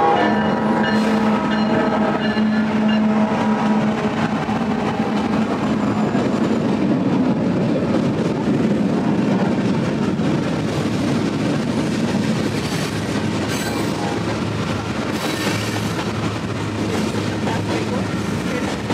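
Trains passing close by: a train horn sounds for the first few seconds. Then a Union Pacific freight with several diesel locomotives goes by with a steady heavy engine rumble, followed by tank cars with wheels clacking over the rail joints and faint wheel squeal.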